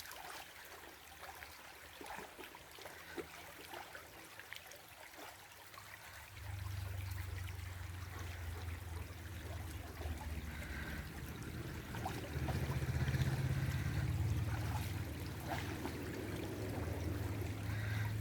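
Shallow river water running and trickling. A low rumble comes in about six seconds in and grows louder toward the middle.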